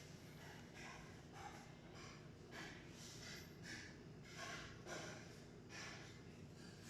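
Faint breathing: a string of short, breathy puffs, roughly one or two a second, over a near-silent background.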